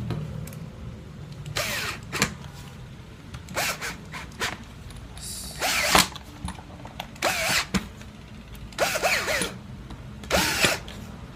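Cordless screwdriver run in repeated short bursts, each a brief whir that rises and falls in pitch, as screws are driven back into a power drill's housing.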